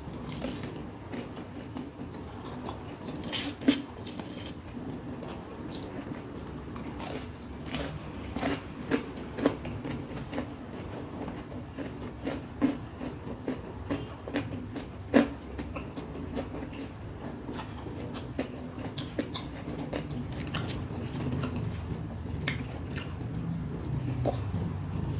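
Close-up chewing and biting of crispy deep-fried snacks, with irregular crunchy clicks and a few louder crunches scattered through, over a steady low hum.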